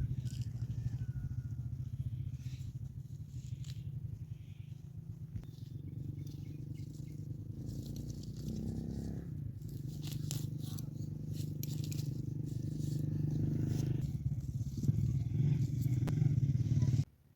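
A small engine running steadily, with scattered clicks and crackles over it; it cuts off abruptly near the end.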